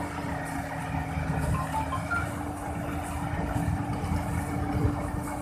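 Kubota DC-35 rice combine harvester's diesel engine running steadily under load, with a constant machine hum and one steady tone.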